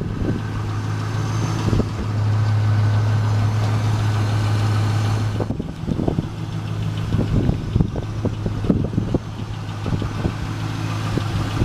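2000 Chevrolet Camaro SS's 5.7-litre LS1 V8 idling steadily with a low hum, louder for the first five seconds or so, then quieter.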